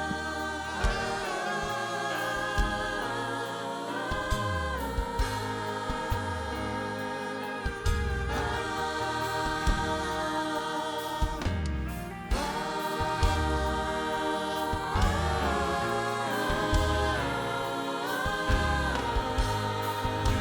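Church choir singing a worship song with band accompaniment, long held chords that shift every second or two over a steady beat.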